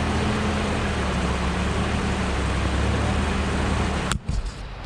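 Off-road truck engine running steadily at low speed, a low hum with a noisy wash over it. It cuts off suddenly about four seconds in.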